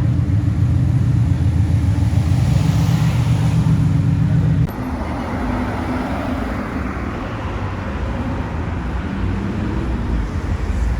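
A car engine humming steadily in road traffic. Just under halfway through it drops away suddenly, leaving a quieter wash of road and tyre noise.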